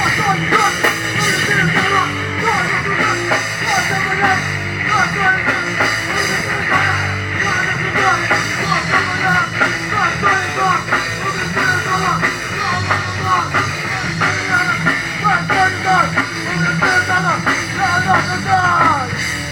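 Rock band playing live: electric guitar, bass and drums in a dense, loud wash, with many short bending notes. Near the end a note slides down.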